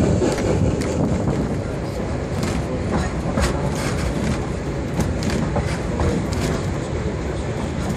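Railroad passenger car rolling along behind a steam locomotive, heard from inside: a steady low rumble with scattered sharp clicks and knocks from the running gear.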